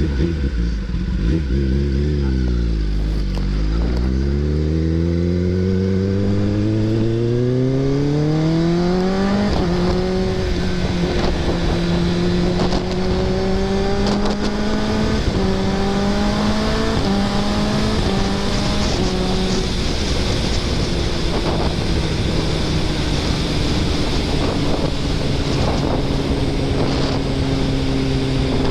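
Kawasaki ZX-10R inline-four engine heard from on the bike, pitch dipping briefly, then climbing hard through the revs with upshifts about ten, fifteen and seventeen seconds in, before settling into a steady cruise that slowly drops in pitch, with wind rush throughout.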